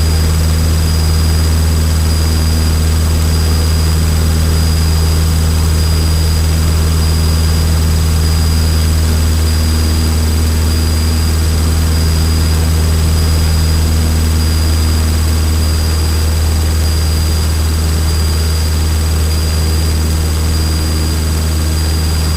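Small Cessna trainer's four-cylinder piston engine and propeller droning steadily, heard inside the cockpit. A faint, thin, steady high whine sits over the engine sound.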